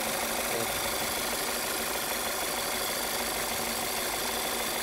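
Car petrol engine idling steadily with the oil dipstick pulled out, so unmetered air is drawn in through the dipstick tube: a simulated air leak that leans the mixture.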